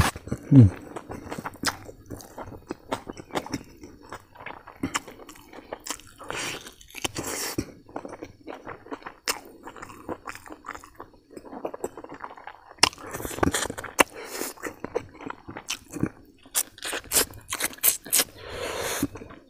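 A man chewing mouthfuls of rice and mutton curry eaten by hand, with many sharp lip smacks and clicks.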